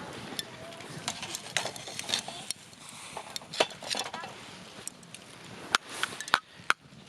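Wood campfire crackling, with irregular sharp pops and snaps over a low hiss; the loudest snaps come close together near the end.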